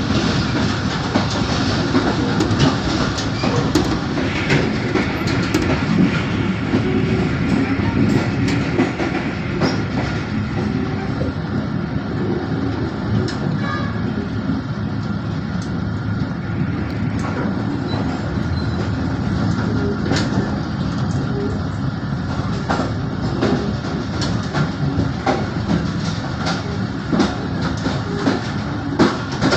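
Passenger train coaches rolling on the rails, heard from aboard: a steady rumble with irregular clicks and clatter from the wheels over rail joints and points.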